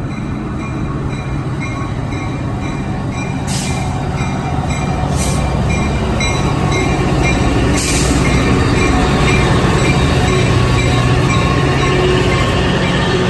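Caltrain F40PH-2 diesel locomotive pulling in on a train, its two-stroke diesel engine running and growing louder as it nears, with wheel and brake squeal and three brief hissing bursts about 3, 5 and 8 seconds in.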